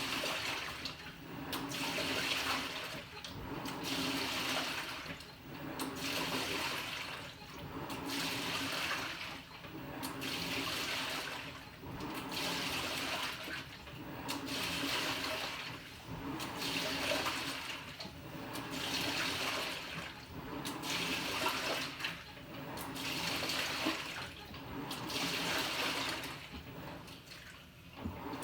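Water sloshing and churning inside a Panasonic NA-FA100H9 fully automatic washing machine as it agitates the load, surging about once every two seconds.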